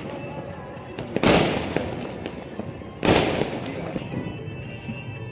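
Two firecracker bangs about two seconds apart, each fading out over about a second, with a few smaller cracks between them.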